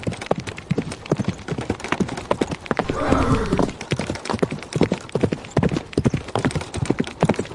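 Horse's hooves clip-clopping on a hard surface, many irregular knocks a second, with a short horse call about three seconds in.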